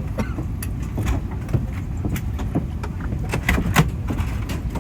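Airbus A380 cabin noise while taxiing after landing: a steady low rumble with scattered light clicks and knocks throughout.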